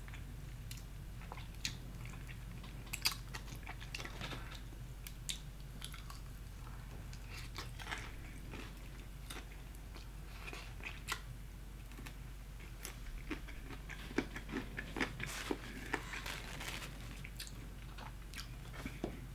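Close-up biting and chewing of crispy Popeyes fried chicken: scattered crunches and wet mouth clicks, busier in the second half.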